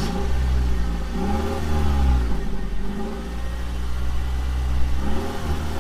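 Truck engine running, revving up and falling back a few times.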